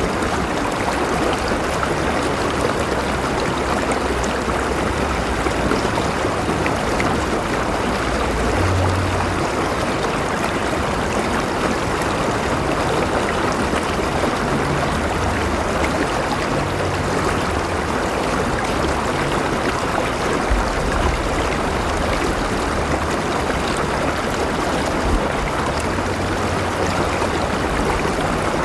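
River water flowing steadily over rocks, a continuous rushing and babbling with a low rumble underneath.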